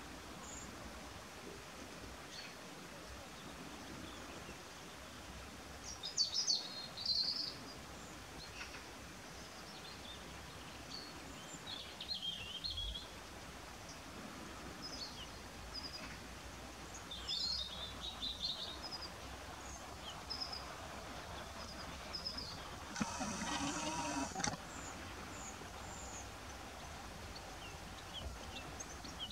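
Small birds chirping and calling now and then over faint outdoor background noise, in clusters of short high notes, with a louder rasping sound lasting about a second and a half near the end.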